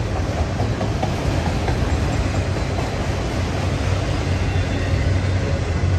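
Autorack freight train cars rolling past: a steady rumble and clatter of steel wheels on rail, with a low hum that grows louder near the end.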